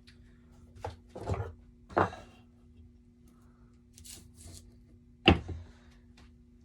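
Wooden shelf being handled and turned over on a workbench: a few hard wooden knocks and thunks, the loudest a little after five seconds in, with softer rustling between them over a steady low hum.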